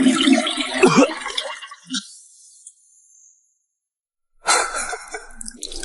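Wordless vocal sounds from a person's voice, wavering in pitch, for about the first two seconds, then a pause; a soft, noisy sound comes in near the end.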